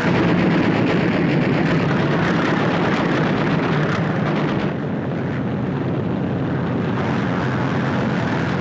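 Propeller aircraft engines droning steadily and loudly, as from warplanes flying over.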